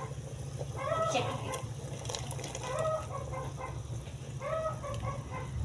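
Chicken clucking, a short call repeated about every two seconds, three times, over a steady low hum.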